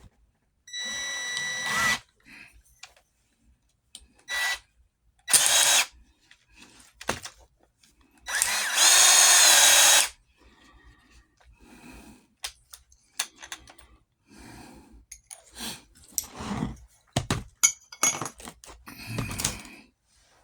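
Electric drill run in short bursts, opening up holes: a run of about a second, a brief blip, a half-second run, then a longer run of nearly two seconds. After that come scattered knocks and clicks.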